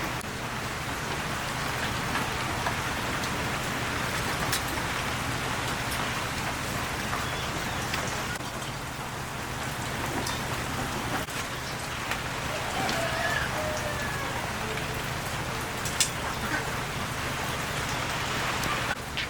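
Heavy rain falling steadily, with a few sharper drop taps standing out, the loudest about 16 seconds in.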